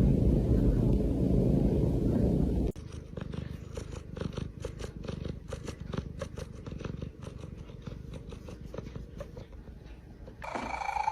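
Domestic cat purring loudly, close up, for the first few seconds, then cut off suddenly. After the cut, a quieter stretch of rapid, irregular clicking follows, and a short held call begins near the end.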